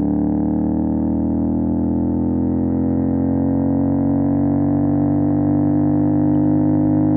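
CFMOTO 450 SR parallel-twin engine running through an MSH G6 full-system exhaust while riding, its note climbing slowly and steadily as the bike pulls in one gear.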